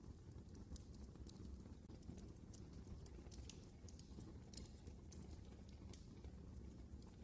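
Wood fire burning in a fireplace: a faint low rumble of flames with irregular sharp crackles and pops from the burning logs.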